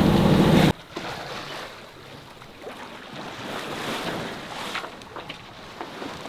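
A sailing yacht's motor drone cuts off abruptly under a second in. After it comes a quieter wash of water moving along the hull and wind on the microphone, with scattered light ticks and splashes.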